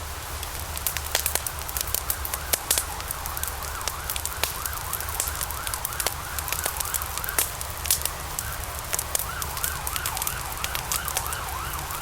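Wood fire burning in a fireplace: steady crackling with frequent sharp pops from the burning logs. A faint warbling whistle wavers up and down through the middle and again near the end.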